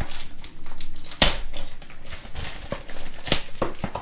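Packaging of a trading-card box crinkling and tearing as the box is opened by hand, with sharp snaps about a second in and again near the end.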